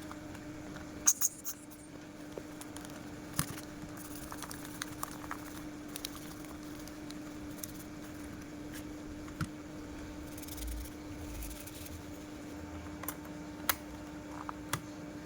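Scattered small clicks and taps from handling the plastic casing and parts of a Sony Walkman WM-GX221 cassette player as it is put back together, over a steady low hum.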